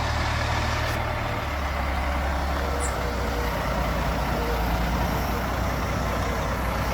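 Heavy truck's diesel engine running steadily as it pulls out onto the road. Its low note steps down about a second and a half in.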